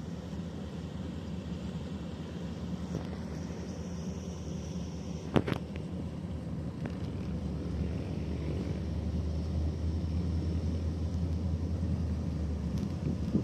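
Boat engine running at low speed, a steady low rumble that grows a little louder in the second half, with one sharp knock about five seconds in.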